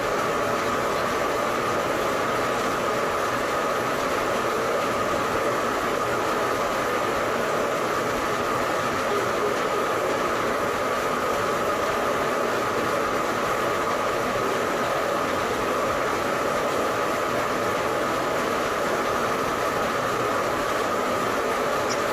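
A steady, unbroken mechanical running noise with a constant tone running through it, even in level throughout.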